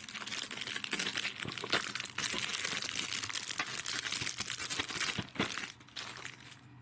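Plastic wrapping on a DVD case crinkling and tearing as it is pulled off, a dense crackle that thins out and goes quieter near the end.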